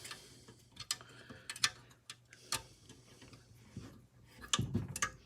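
Scattered, irregular light clicks and clinks of a hand tool working a screw out of a miter saw's housing, about half a dozen in all.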